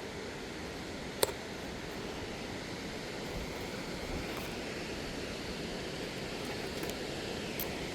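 Steady rushing roar of a waterfall, with one sharp click about a second in.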